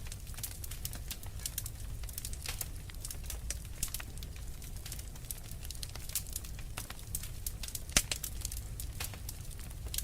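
Wood fire burning in a fireplace, crackling with many small sharp pops over a low steady rumble of the flames, and one louder pop about eight seconds in.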